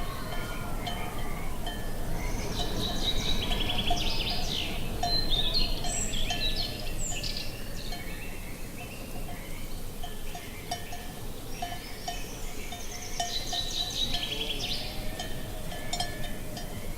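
Cattle bells clanking irregularly, with songbirds chirping and trilling in two spells, the first a couple of seconds in and the second near the end, over a steady low rush of wind.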